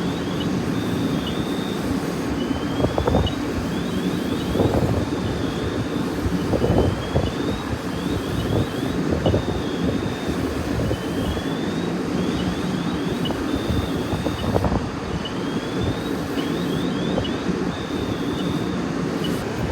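Steady low rumble of vehicle engines running, with wind on the microphone and irregular dull pops every second or two. A faint electronic sequence of rising chirps and a short flat tone repeats about every four and a half seconds.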